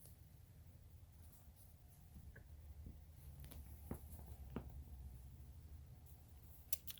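Faint scratching and a few light taps over a low room hum, strongest in the middle of the stretch.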